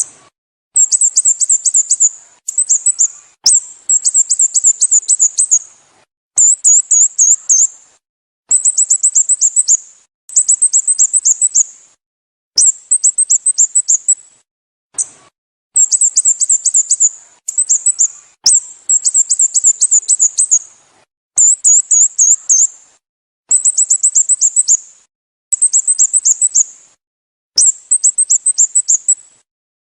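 Sooty-headed bulbul calling: short, high-pitched phrases of fast, falling chirps, repeated about every two seconds with brief silences between.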